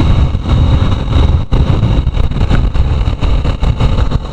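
Motorcycle riding up a hill road, its engine running under a heavy, uneven rush of wind noise on the rider's microphone.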